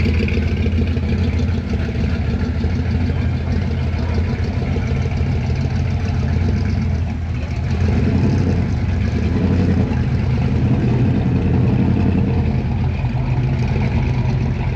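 Car engine idling steadily close by.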